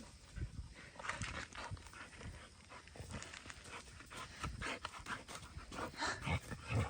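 A dog panting in short, uneven breaths.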